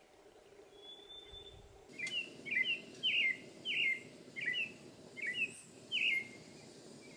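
A songbird singing a run of about eight quick, similar slurred phrases, roughly two a second, starting about two seconds in. One thin high whistle comes shortly before the run.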